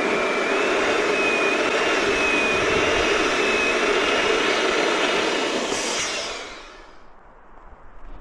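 Electric balloon inflator pump running with a steady rushing whine, then winding down and stopping about six seconds in.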